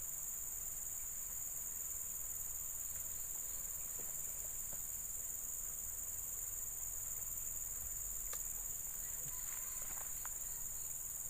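Steady high-pitched insect chorus, crickets chirring without a break, with a single faint click about eight seconds in.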